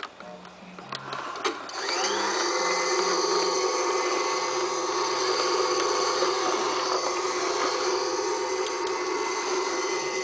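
Fisher-Price Laugh & Learn toy vacuum cleaner: a few light clicks, then about two seconds in its vacuum noise starts with a brief rising whine and runs on as a steady whir.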